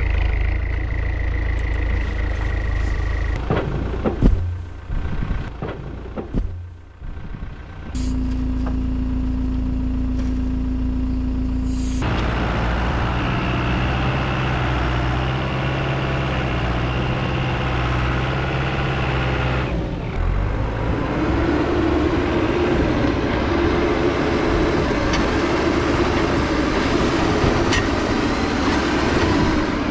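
Heavy-equipment diesel engines running in several cut-together clips, with abrupt changes in engine note a few times and a rougher, quieter stretch with a few knocks early on.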